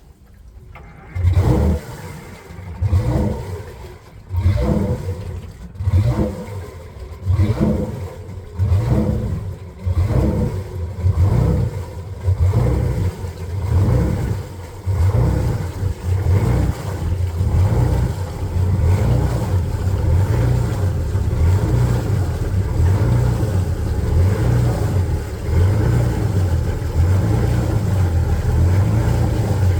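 Detroit Diesel 6-71TI two-stroke inline-six diesel running rough just after a cold start without a block heater, its sound surging and sagging about every second and a half, then settling into a steadier run after about fifteen seconds. The owner puts its compression at only 350 to 375 and says it needs a rebuild.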